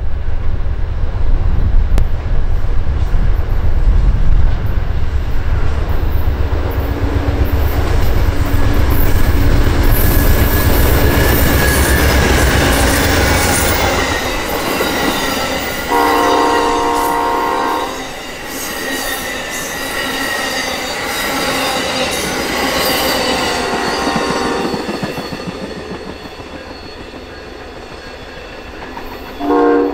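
Passenger train passing: a GE P40 diesel locomotive's deep engine rumble first, then the bi-level Superliner cars' wheels clattering and squealing over the rails, fading as the train moves away. A train horn sounds for about two seconds midway and briefly again near the end.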